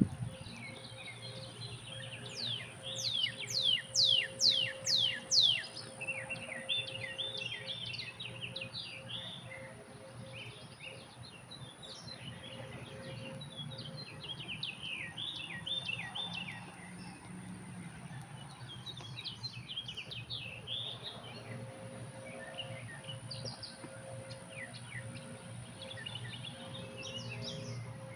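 Birds singing and chirping, with a loud run of about seven quick downward-slurred whistles about three seconds in. A steady low hum runs underneath.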